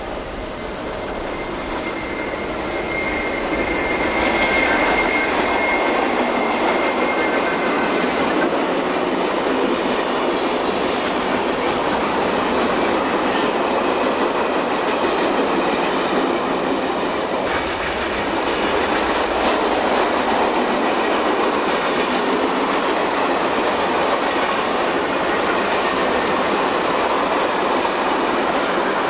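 A train running on steel rails, with a steady dense rumble and clatter of wheels that swells about four seconds in and holds. A thin high squeal from the wheels on the rails sounds over the first several seconds.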